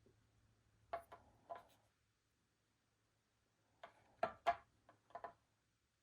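Light clicks and taps of a small tool against a hard work surface while marking polymer clay: three about a second in, then a quicker run of about six near the end.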